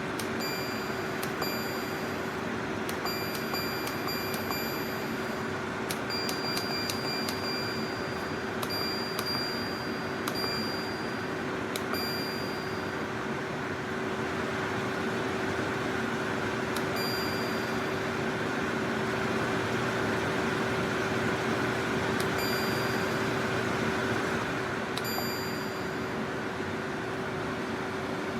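SereneLife 9000 BTU portable air conditioner running, with a steady fan whir over a constant hum. Now and then there are short high pings, several close together in the first half and a few later.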